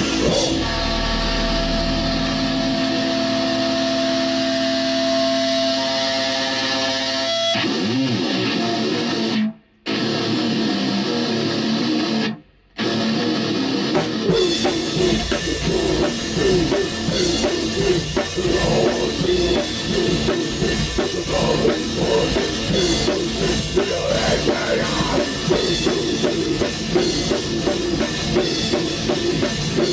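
A black metal band rehearsing live with distorted electric guitar and drum kit. A held guitar chord rings for about seven seconds, and the sound cuts out twice briefly. From about halfway through, the full band plays together with dense, rapid drumming.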